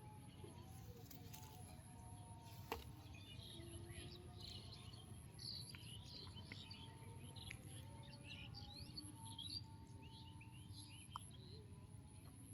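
Small birds chirping faintly, many short calls overlapping, over a low rumble. A sharp click about three seconds in and a smaller one near the end.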